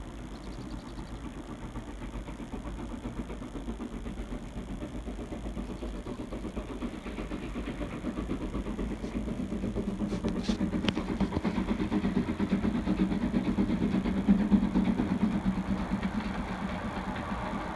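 A tourist train's engine running and drawing nearer, growing steadily louder to a peak about three-quarters of the way through, then easing slightly. A few sharp clicks come a little past the middle.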